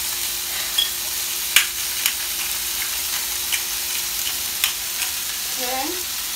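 Chicken breast pieces sizzling steadily in oil in a frying pan, with a few sharp clicks and taps at irregular moments, the loudest about a second and a half in. A steady faint hum runs under it and stops shortly before the end.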